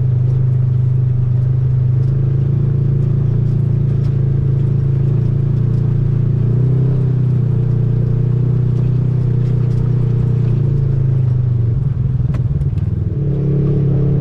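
Off-road side-by-side's engine running steadily under way, a loud constant drone that briefly eases off about twelve seconds in and then picks up again.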